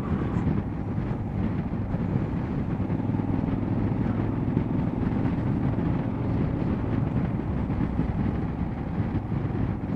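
Motorcycle engine running at a steady cruising speed, a continuous even drone.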